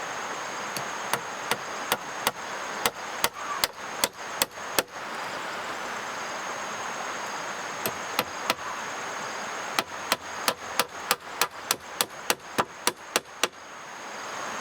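Rapid series of sharp knocks from a tool striking wood or bamboo. The strokes come in two runs, the second faster at about four a second.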